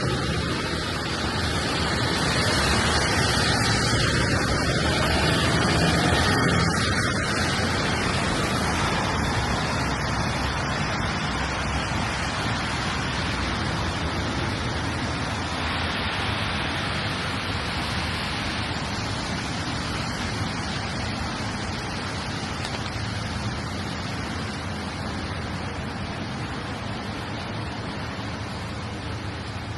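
Steady rain hiss on a wet city street, with a louder swell of noise for several seconds near the start that then slowly fades.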